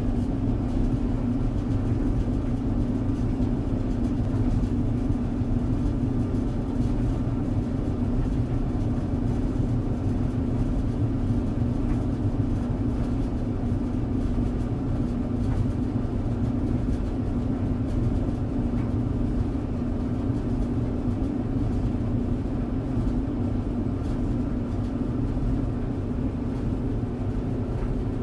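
Clothes dryer running steadily: a continuous low motor hum and drum rumble.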